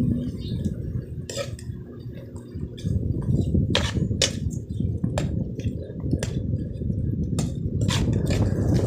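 A metal utensil clinking and knocking against a cooking pot, in about a dozen sharp, irregular strikes, over a steady low rumble that grows louder about three seconds in.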